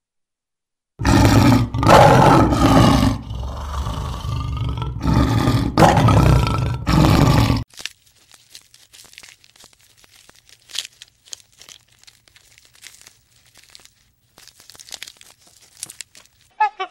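Male lion roaring: a run of loud, deep calls for about seven seconds, then faint scattered clicks.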